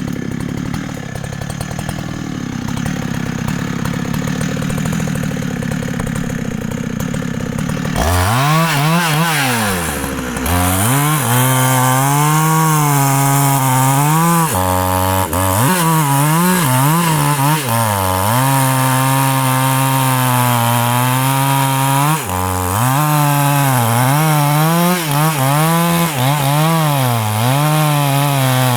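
A big Husqvarna two-stroke chainsaw cutting into a large rain tree trunk, its engine note rising and falling as the chain bites and is eased off. The sound is rougher and duller at first, then changes abruptly about eight seconds in to a clear, loud engine note that drops nearly to idle twice before picking up again.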